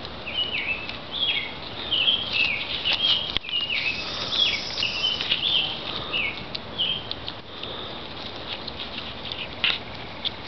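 A small bird chirps a quick series of short high notes, each dropping in pitch, about two a second, stopping about seven seconds in. Under it, goats browsing in leafy undergrowth rustle and snap leaves and twigs.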